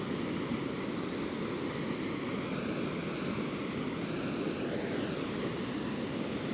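River rapids: a steady rush of water.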